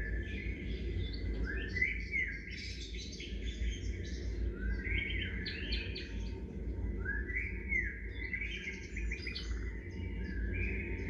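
Songbirds singing: a song phrase of quick rising and stepped notes that repeats about every two seconds, over a steady low rumble.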